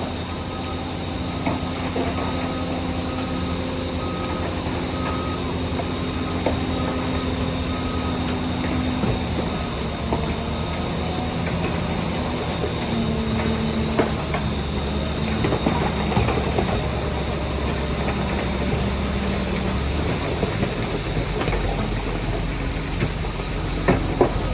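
Crawler bulldozer's diesel engine running under varying load, its pitch shifting a few times, with scattered short clanks and knocks from the machine.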